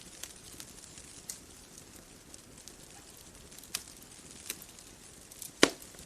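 Wood fire crackling: scattered sharp pops and snaps over a soft steady hiss, with one loud pop near the end.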